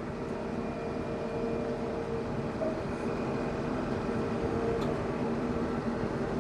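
TYM T574 compact tractor's diesel engine idling steadily, heard from inside the cab.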